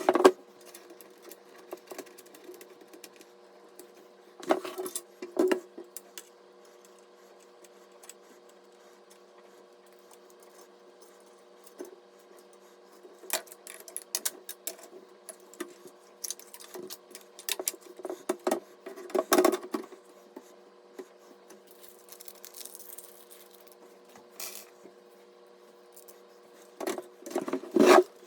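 Scattered clicks, taps and small rattles of PC hardware being handled and fitted, over a steady faint hum.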